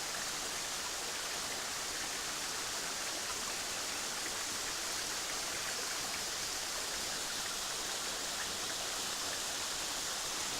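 Waterfall running low in the dry season: a steady, even rush of thin falling water splashing onto rock.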